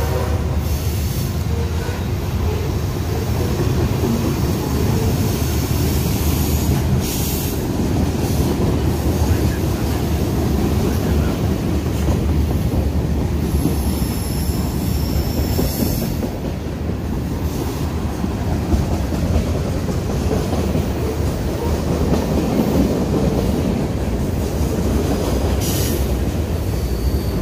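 Freight train of tank cars, covered hoppers and container cars rolling steadily past: a continuous low rumble of wheels on rail, with a few brief high squeals from the wheels scattered through it.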